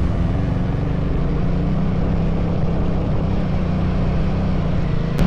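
Motorcycle engine running at a steady speed, a continuous even hum without revving.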